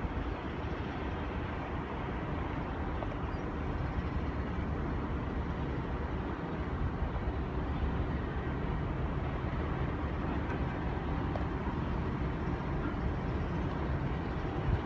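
Diesel-electric locomotives (NR class) hauling a passenger train, their engines giving a steady low rumble.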